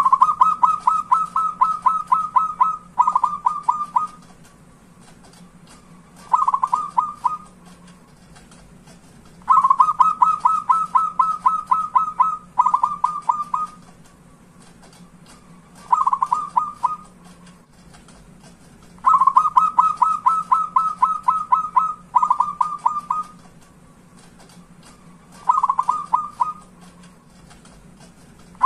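Zebra dove (perkutut) song: runs of rapid, staccato cooing notes. A run of about three seconds is followed straight away by a shorter one, then a lone short run, and the pattern repeats about every nine or ten seconds. A faint steady hum lies underneath.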